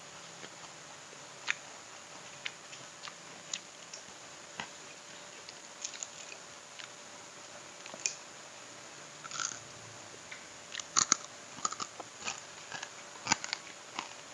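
Close-miked eating of fried catfish: scattered crunching and clicking chewing sounds, coming more often and louder in the last few seconds, over a faint steady hum.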